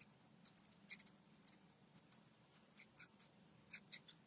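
Marker tip scratching across card stock in short, quick strokes while colouring in a stamped bird, faint and irregular, a few strokes a second.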